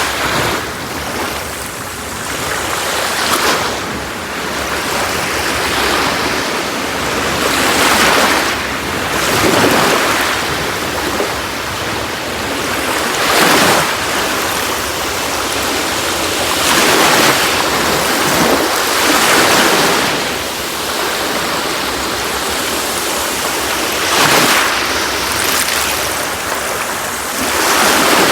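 Sea waves breaking and washing on a shore, a continuous hiss of surf that swells with each breaking wave every few seconds and ebbs between.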